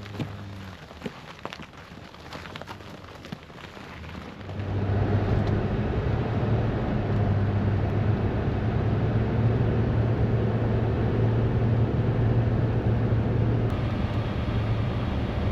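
A few light knocks and clicks over a faint engine hum. About four and a half seconds in, a vehicle engine becomes much louder and runs steadily at a low, even pitch.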